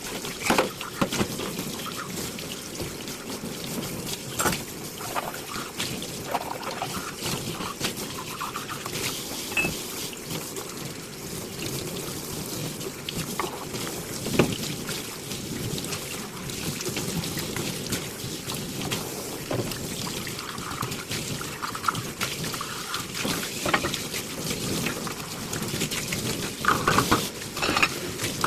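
Tap water running and splashing into a kitchen sink while dishes are hand-washed and rinsed, with occasional clinks and knocks of crockery.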